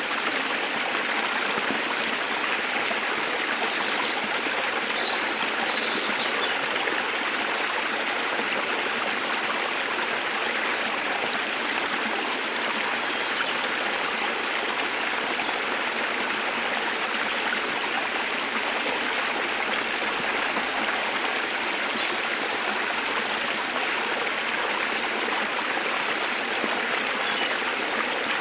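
A waterfall's steady rush of water, even and unbroken, with a few faint bird chirps here and there.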